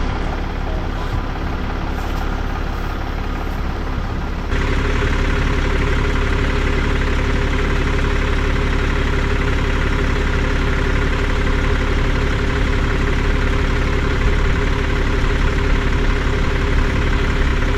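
A vehicle engine idling steadily. About four and a half seconds in it suddenly becomes louder and fuller, then carries on steady.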